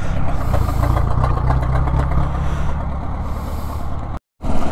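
Motorcycle engine running with a steady low rumble, mixed with wind noise on the helmet microphone. The sound drops out completely for a moment near the end.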